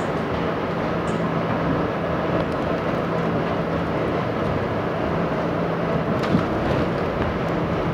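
R68 subway train running, heard from on board: a steady rumble of wheels and motors with an on-and-off low hum, and a single short clack about six seconds in.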